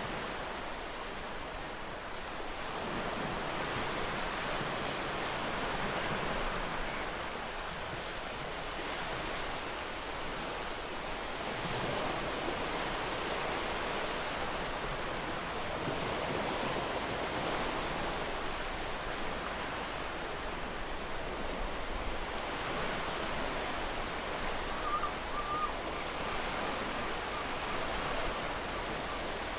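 Ocean surf washing onto a shore: a steady rushing wash that swells and eases every few seconds as waves break.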